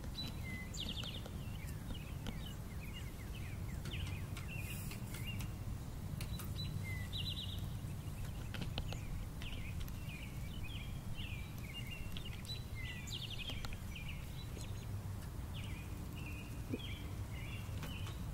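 Small songbird chirping and trilling over and over in short, quick calls, over a steady low rumble, with a few faint sharp ticks.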